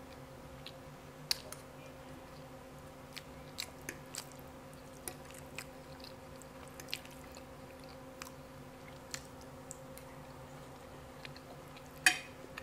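Quiet close-miked chewing of fried catfish, with scattered soft mouth clicks over a steady low hum; one sharper, louder click near the end.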